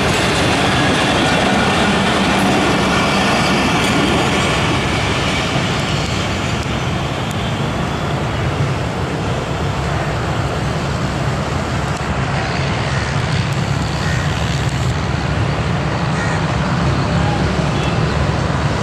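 Passenger train coaches rolling past at a station, a loud steady rumble of wheels on rail, with a low hum growing stronger in the second half.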